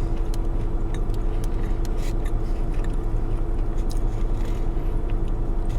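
Person chewing a bite of chocolate cake: soft wet mouth clicks at irregular moments over a steady low hum.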